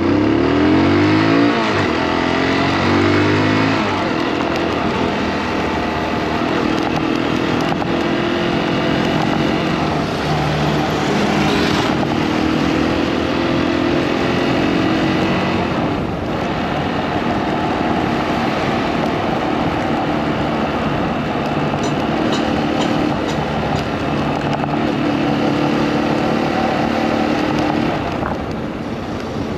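Motorcycle engine pulling away, its pitch climbing several times in quick succession over the first few seconds, then running steadily at riding speed with small rises and falls in pitch.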